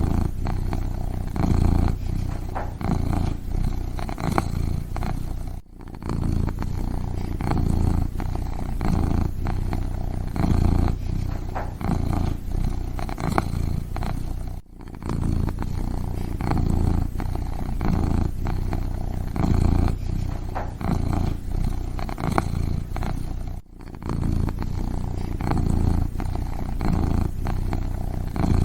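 Kitten purring steadily in a pulsing in-and-out rhythm, dropping out briefly three times about nine seconds apart.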